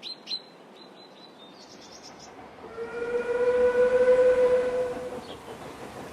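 Birds chirping, then a Talyllyn Railway steam locomotive whistle blowing one long steady blast of about two and a half seconds over a rushing hiss.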